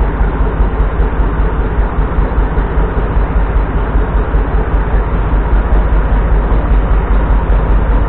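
Tractor engine running steadily at idle, a loud, even low rumble.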